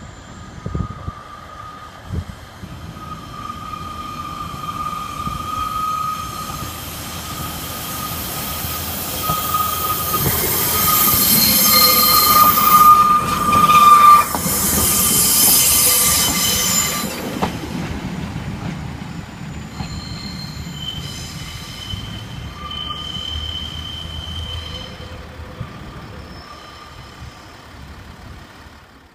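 Two-car diesel multiple unit approaching, passing close and running away. Its engine and wheels build to a peak about halfway through, then fade. A high-pitched wheel squeal comes and goes over the rumble, strongest just before the train passes and heard again, higher, as it pulls away.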